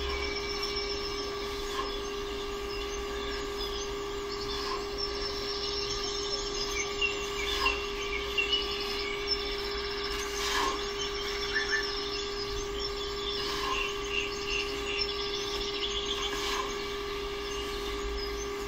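Small birds chirping in short, repeated twittering phrases over a steady hum, with a few brief clicks.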